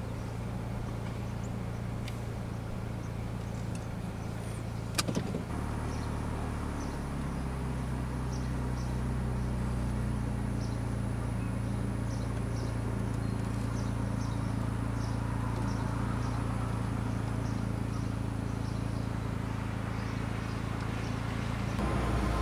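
Steady low hum of a car idling, heard from inside the car. A single sharp click comes about five seconds in, and faint short high chirps repeat throughout.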